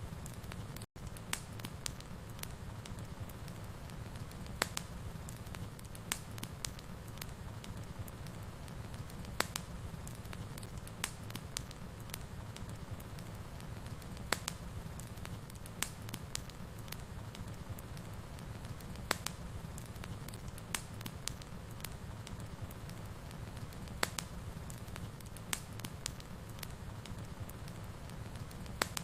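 Wood fire burning in a fireplace: a steady low rumble with sharp crackles and pops scattered irregularly through it. The sound cuts out for an instant about a second in.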